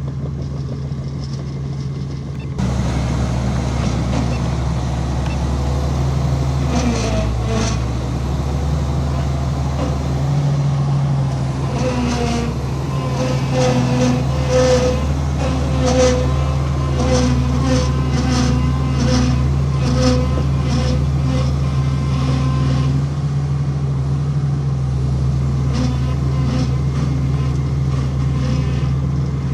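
Heavy diesel earthmoving machinery running steadily, getting louder a few seconds in, with metallic clanks. From about twelve seconds in a short tone repeats about once a second, like a reversing alarm.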